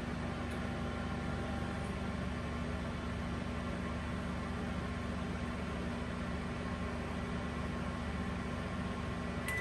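GE JEB1860SM2SS countertop microwave oven running empty: a steady hum with fan noise, and a click near the end.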